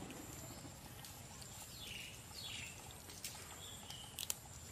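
Quiet outdoor background in which a bird gives two short, quickly falling chirps about two seconds in. A few light clicks come near the end.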